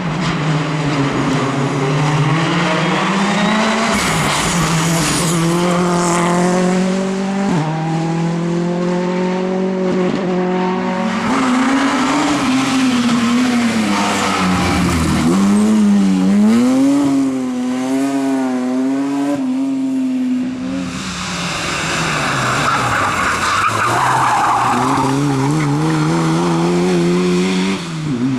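Rally car engines revving hard, the pitch climbing and dropping sharply again and again with quick gear changes, with tyres squealing through corners.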